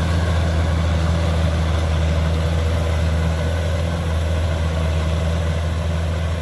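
Kubota DC-105X combine harvester's diesel engine and machinery running with a steady, even drone.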